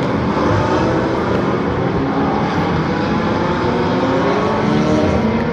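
GT race car engine running hard under acceleration, its note climbing slowly and steadily.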